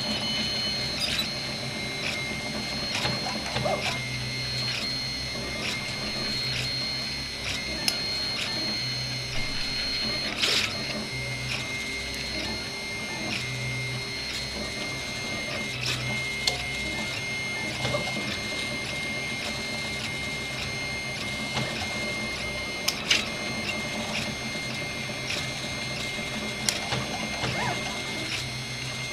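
RepRap 3D printer running a print, its stepper motors giving a steady high whine as the axes move, with a low hum that comes and goes and scattered sharp clicks.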